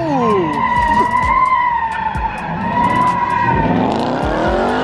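Car tires squealing in a steady, high screech as the car spins them, with the engine revving underneath, its pitch dropping and rising and climbing sharply near the end.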